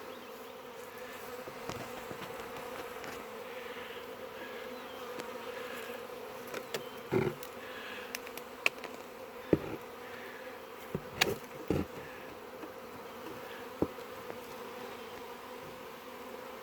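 Honey bee swarm buzzing steadily, many bees flying about the limb where the swarm is regathering. A few short sharp taps sound through the middle of the buzz.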